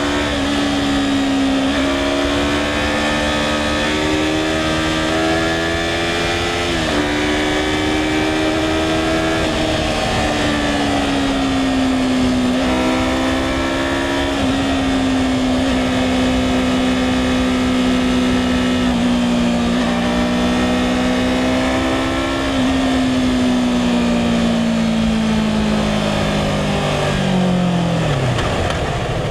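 2016 Yamaha R3's parallel-twin engine running at fairly steady revs under way, its pitch dipping briefly a few times. Near the end the revs fall away steeply towards idle as the bike slows.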